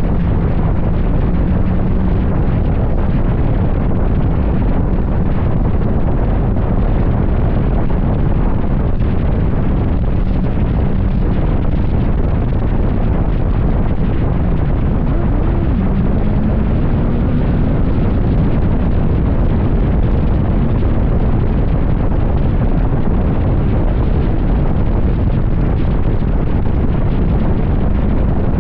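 Heavy wind buffeting on the microphone of a motorcycle riding at highway speed, with the engine's drone faint underneath, rising a little in pitch a little past halfway through.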